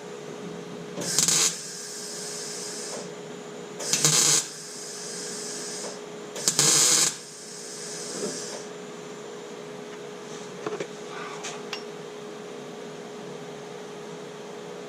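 A handheld power tool run in three short bursts, each trailing off for a second or so as it winds down, over a steady low hum.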